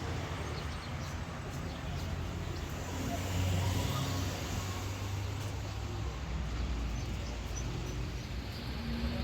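A vehicle engine running with a steady low rumble, swelling a little about three seconds in.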